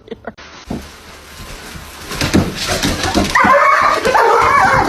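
A dog whining, a long wavering cry that starts about two-thirds of the way in and is the loudest sound, after some rustling and a few knocks.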